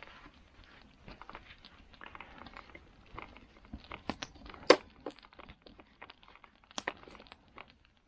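Campfire crackling: burning wood giving off irregular small pops and snaps, with one sharp loud crack about four and a half seconds in.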